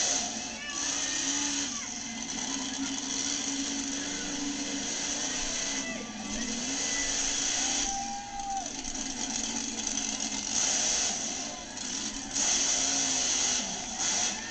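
Monster truck engine running steadily, its pitch wavering a little, over a constant loud arena din.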